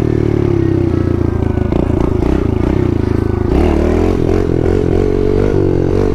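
Kawasaki KLX110 pit bike's small single-cylinder four-stroke engine running under way. Its pitch sags slowly, dips about three and a half seconds in, then climbs again as the bike pulls.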